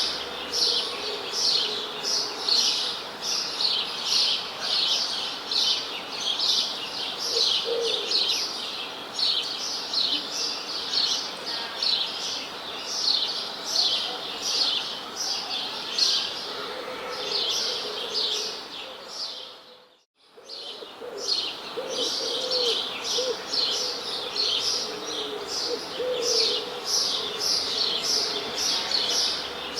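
A chorus of birds chirping in quick, repeated high notes, several a second, over a lower steady sound. The whole sound fades out briefly about two-thirds of the way through and comes back.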